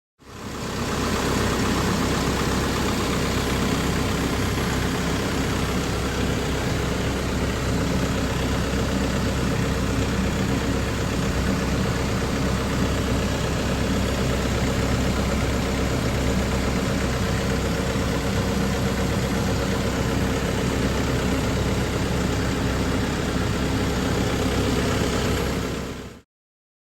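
VW Transporter T6 2.0 TDI four-cylinder diesel engine idling steadily, fading in at the start and out near the end.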